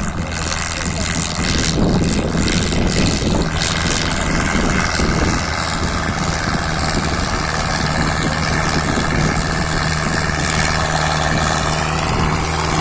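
Powertrac Euro 60 Next tractor's diesel engine running at steady high revs under load while pulling a harrow, a continuous even drone.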